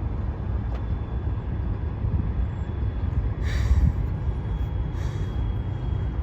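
Amtrak Cascades passenger train rumbling as it stands at the platform about to depart, with two short hisses of air about three and a half and five seconds in.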